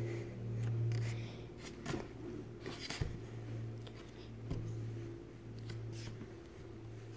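A steady low hum that swells and fades, with a few faint clicks and rustles of a puzzle being handled.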